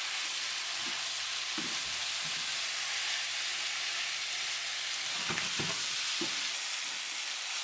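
Chicken wings frying in XO sauce in a wok, a steady sizzle while they are stirred, with a few light scrapes of the utensil about one and a half, five and six seconds in.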